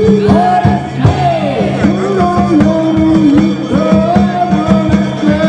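Danjiri festival music: drums struck in a quick, continuous rhythm under a steady ringing tone, with voices over it.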